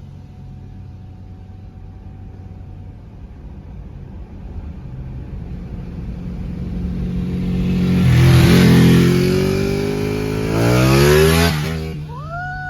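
Ducati Panigale 899's L-twin engine building from a low, distant running sound into hard acceleration. The pitch climbs twice, about eight and about eleven seconds in, with a gear change between, and then the sound fades away.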